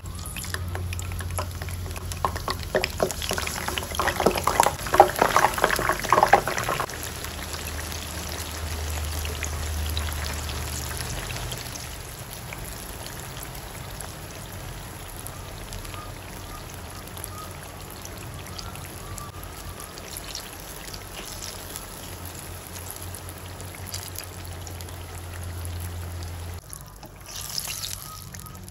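Eggplant slices frying in hot oil in a nonstick pan: dense popping and crackling for the first several seconds, settling into a steadier sizzle.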